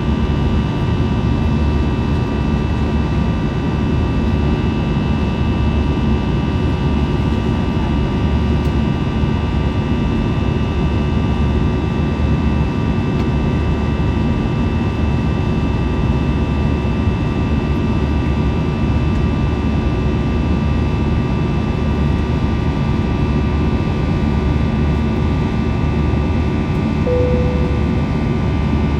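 Steady jet engine and airflow noise heard inside the cabin of an Airbus A321, a constant roar with several steady engine tones. A brief tone sounds near the end.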